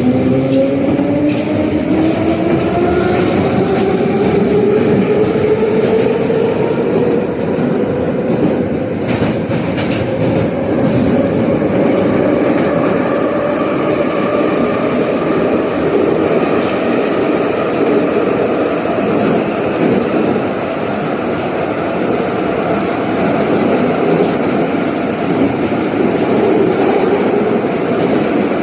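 Type 81-717 metro train pulling away and running between stations. Its traction motor whine rises in pitch over the first several seconds as it accelerates, then settles into a steady run over the rumble of the wheels, with a few clicks about ten seconds in.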